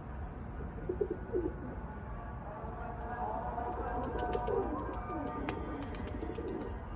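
Domestic pigeons cooing, several short low coos scattered across the few seconds.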